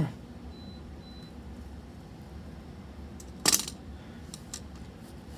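Cutters snipping through a plastic tie wrap: one sharp snap about three and a half seconds in, with a few light clicks around it, over a steady low hum.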